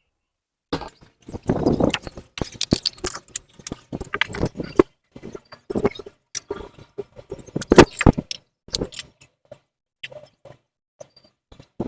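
Irregular clicks, knocks and metallic rattles of hand tools and metal parts being handled during motorcycle exhaust fitting work, with one sharper knock a little before eight seconds in, then only a few small clicks.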